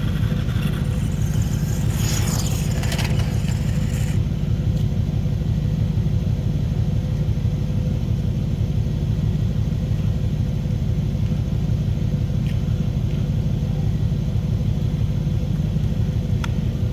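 Small engine of a 1/5-scale model motorcycle running steadily at an even speed, a constant low rumble.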